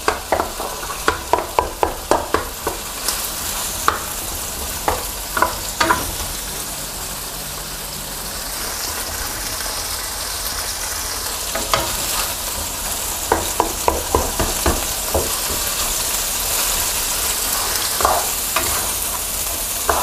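Eggs frying in hot oil in a nonstick wok with chicken and squid, a steady sizzle throughout. A wooden spatula scrapes and taps the pan in runs of quick strokes as the eggs are broken up and stirred: through the first six seconds, again from about twelve seconds in, and once more near the end. In between there is only the sizzle.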